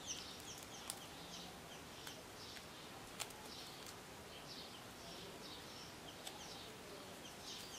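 Faint birds chirping again and again in the background, with a couple of soft clicks.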